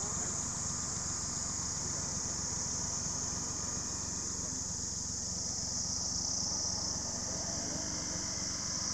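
Steady, high-pitched insect chorus over a continuous low rumble.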